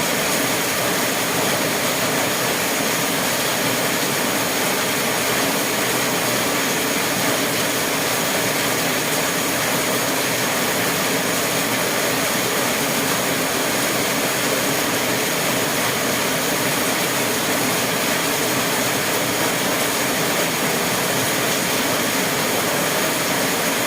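Steady, unchanging rushing noise.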